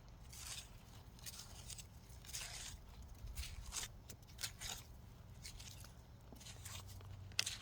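Soil being dug with a Korean hand hoe (homi): irregular scraping and crunching strokes through dry earth, with a sharper click near the end.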